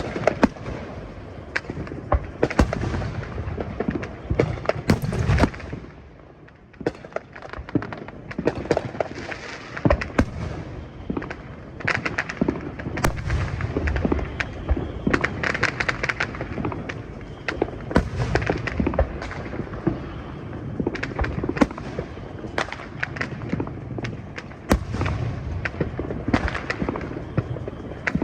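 Fireworks display: a dense run of booms and sharp cracks with crackling, overlapping one another, easing off briefly about six seconds in before picking up again.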